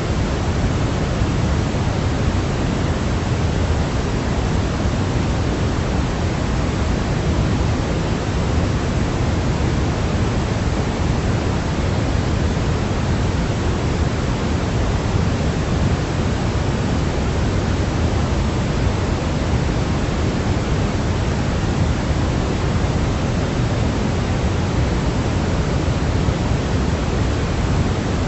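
Steady white-noise sleep sound, an even, unchanging hiss that is heavier in the low end, like pink noise.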